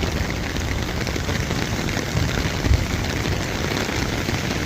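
Steady heavy rain falling, a continuous even hiss, with a brief low thump a little past the middle.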